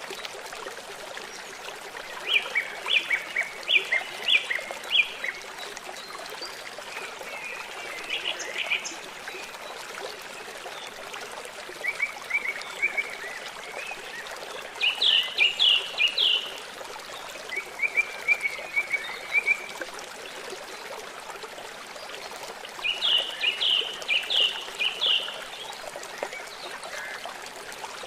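Songbird singing in short phrases of quickly repeated chirping notes, about six phrases with pauses between them, over the steady rush of trickling water.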